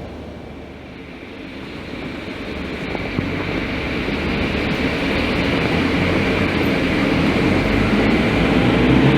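A Scania K310IB bus running, its engine and road noise growing steadily louder after a brief lull about a second in.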